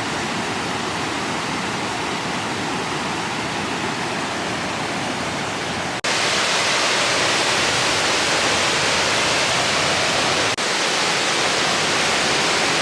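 Steady rush of falling water, in three back-to-back clips with short breaks at the cuts; it gets louder about six seconds in.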